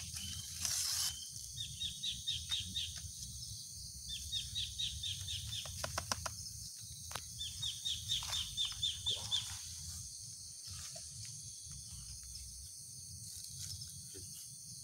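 A bird calling three times, each call a quick run of about six to eight short, high, repeated notes. A brief rustle comes about a second in, and a few faint clicks come near the middle.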